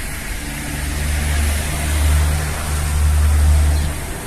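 Music starting on the car's sound system: a deep bass tone swelling for about three and a half seconds, with a broken higher bass line over it, then cutting off suddenly near the end.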